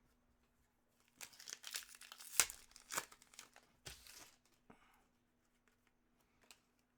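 A trading card pack wrapper being torn open and crinkled by hand: a burst of tearing and crackling starting about a second in and lasting about three seconds, then only faint handling ticks.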